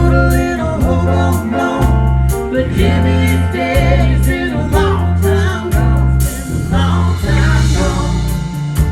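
Live country band playing with drums and bass in a steady beat, a pitched lead wavering over it.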